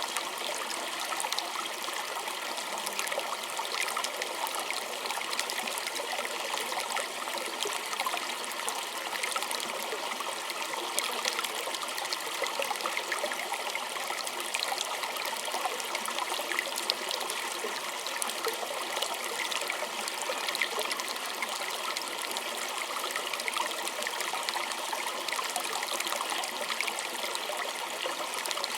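A small creek running and trickling over stones: a steady babble with many small splashes and droplets.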